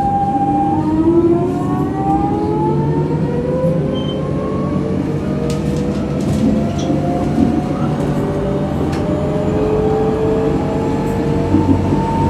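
Electric tram's traction motors whining as it pulls away, several tones rising steadily in pitch as it gathers speed, over the steady rumble of wheels on the rails with a few clicks.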